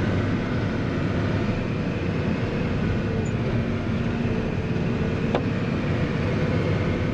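A vehicle's engine running steadily with a low rumble, with a single sharp click about five seconds in.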